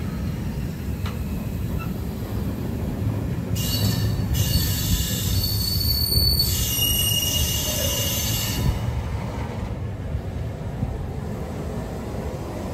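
Long freight train of intermodal wagons rolling past with a steady rumble of wheels on rail. About three and a half seconds in, a high-pitched metallic squeal from the wagons' wheels starts, holding several steady tones for about five seconds before it stops.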